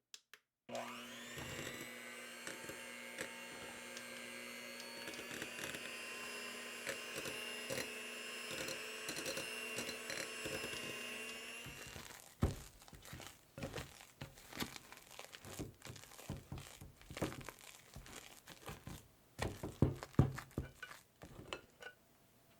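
Electric mixer starting up and running steadily for about eleven seconds, then switching off. After that come irregular clicks, knocks and scrapes of utensils against a bowl.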